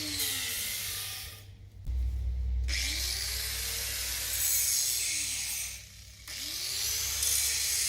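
Steady abrasive rubbing, like sanding or scraping, with two brief pauses.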